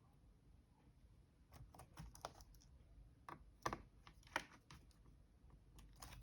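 Keys of a Dell Latitude E7440 laptop keyboard being pressed: faint, irregular clicks starting about a second and a half in, with two louder clicks in the middle.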